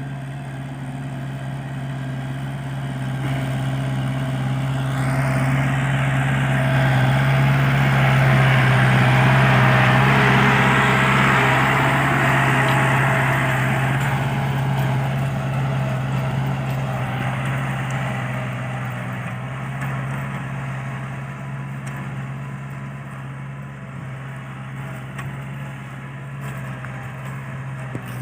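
Kubota L5018SP tractor's diesel engine running steadily while plowing, growing louder for several seconds in the middle and then easing back.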